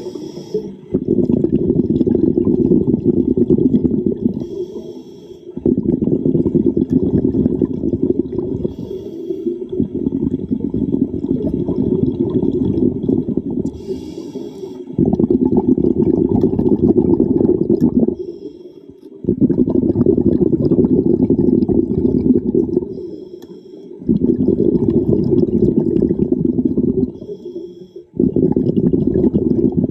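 Diver breathing through a regulator underwater: each exhale is a long bubbling rush of about three to four seconds, and each short inhale between them is a thin hiss, about every four to five seconds, seven breaths in all.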